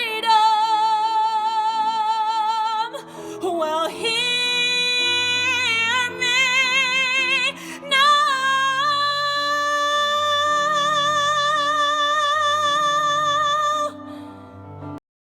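A woman singing long held notes with strong vibrato over a backing track, in three phrases. The last note is held for about six seconds, and the accompaniment cuts off about a second after it ends.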